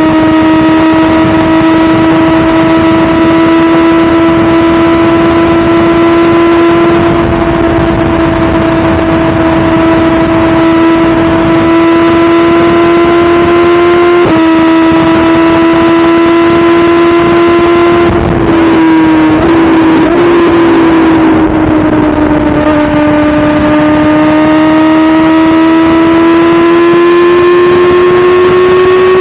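2017 BMW S1000RR's inline-four engine running steadily at speed under rushing wind noise. The pitch briefly breaks about halfway through, dips in a gear change around two-thirds through, then climbs steadily as the bike accelerates toward the end.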